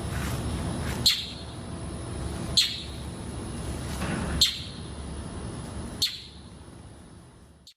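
A bird giving a sharp single chirp four times, roughly every one and a half seconds, over steady low background noise.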